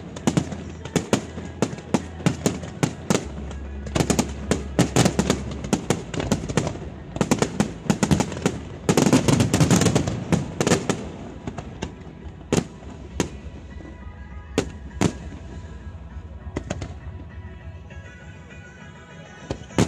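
Aerial fireworks display: rapid volleys of shell bursts with crackle, loudest and densest about halfway through as a thick stretch of crackling, then thinning to scattered single bangs. Faint music plays underneath.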